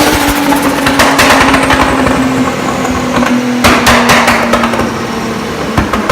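Turbocharged car engine running, with bursts of rapid turbo flutter (compressor surge chatter) on throttle lift-off: about a second in, again near four seconds, and near the end.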